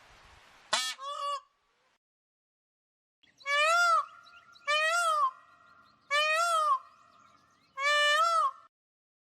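Indian peafowl calling: a short two-part call near the start, then four loud, nasal honking calls about a second and a half apart, each rising and falling in pitch.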